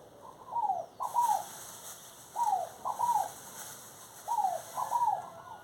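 A bird calling: short notes that fall in pitch, in groups of two or three, repeated about three times.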